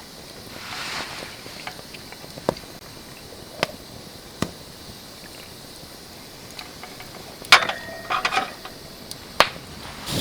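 A few isolated sharp clicks and knocks over a quiet outdoor background, with a brief rustle about a second in and a quick cluster of clinks with a short ringing tone near the end.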